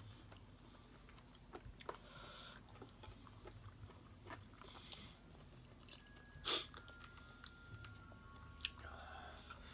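Soft chewing and biting of steamed king oyster mushroom, with scattered small mouth clicks and one brief louder noise about six and a half seconds in.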